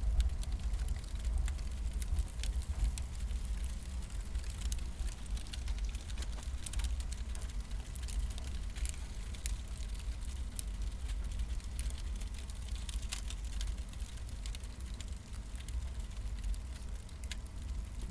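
Wood campfire burning, with irregular sharp crackles and pops from the burning logs over a steady low rumble.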